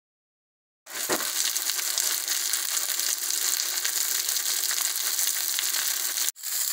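Cornmeal-breaded fish fillets frying in oil in a cast iron skillet: a steady sizzle that starts about a second in and cuts out for a moment near the end.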